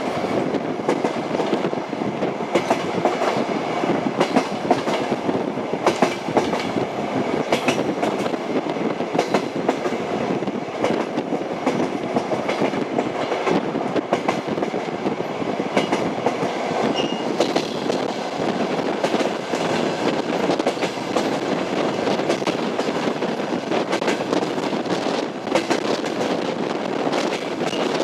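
Train wheels knocking over the rail joints as the train runs at a steady pace: a continuous rolling noise broken by frequent short clicks.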